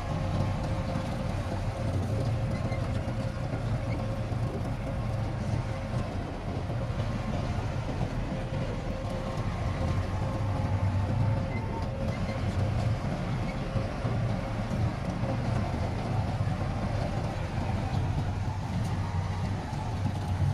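Heavy diesel earthmoving machinery running steadily: a low engine rumble with a faint steady whine above it.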